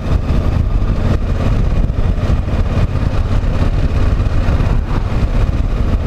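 KTM 990 Adventure motorcycle's V-twin engine running as the bike rides along at town speed, a steady low rumble with road and air noise over it.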